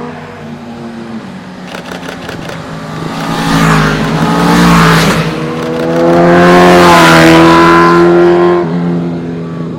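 Motorbikes passing close by on the road: engine noise builds to loud twice, around four and seven seconds in, the pitch bending as they go past.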